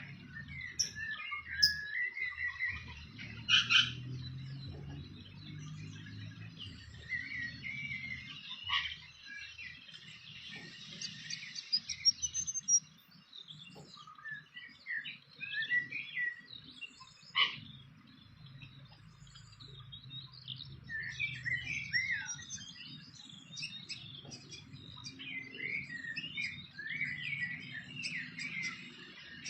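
Small birds chirping and calling, with many short, varied high notes throughout and a few sharper, louder notes. A low rumble runs underneath.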